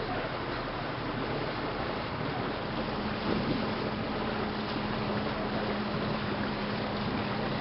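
Steady rushing of wind and sea water, joined about three seconds in by a steady low motor hum.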